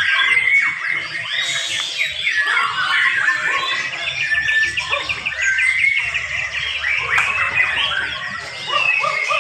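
Several young white-rumped shamas singing at once, overlapping loud whistled phrases, with a fast rattling trill about three seconds in.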